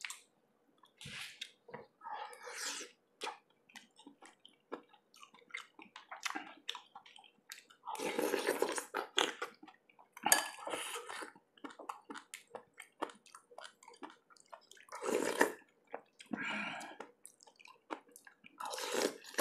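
Close-miked wet eating sounds from a person eating lobster in sour sinigang broth: scattered small mouth clicks and chewing, with longer wet slurping bursts about eight, ten and fifteen seconds in.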